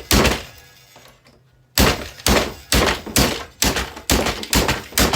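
A boombox struck with heavy blows: one thunk, then after a pause a steady run of eight more at about two a second as it is smashed apart.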